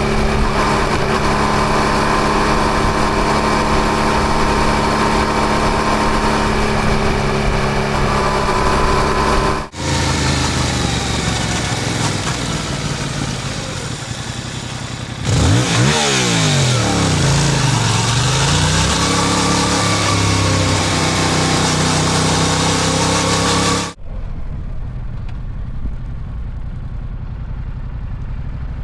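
Yamaha MT-07's parallel-twin engine running on the road under a steady rush of wind and road noise, across several cut-together clips. About halfway through, the engine pitch dips and climbs again, and in the last few seconds the sound turns quieter and duller.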